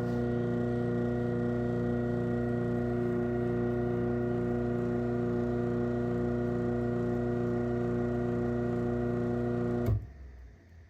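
Craftsman garage door opener's motor running with a steady hum through a closing cycle. About ten seconds in, it stops suddenly with a short clunk as it reaches the end of its close travel.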